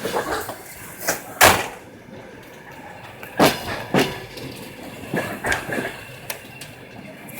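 Moving train heard from inside a carriage: a steady rumble with irregular loud knocks and clunks of the car's running gear and couplings, the loudest about one and a half seconds in.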